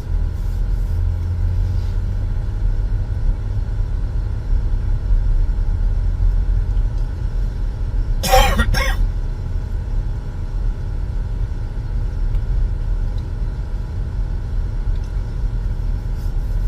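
Steady low rumble of road and engine noise inside a moving car, with a short cough about eight seconds in.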